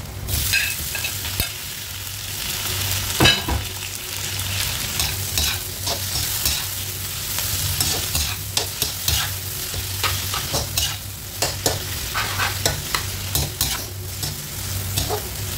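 Onions, garlic and freshly added tomato sizzling in oil in a nonstick wok while being stirred with a spatula: a steady frying sizzle with repeated short scrapes and taps of the spatula on the pan, and one louder knock about three seconds in.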